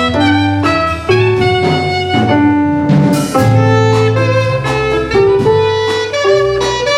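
Live instrumental ensemble playing: a melody of held, stepping notes over a sustained bass line.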